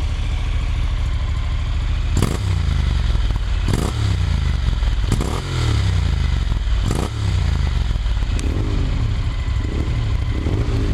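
Honda NC750X parallel-twin engine through an r's gear Wyvern full exhaust, idling and then blipped four times in quick succession, the revs falling back to idle after each blip, with lighter blips near the end.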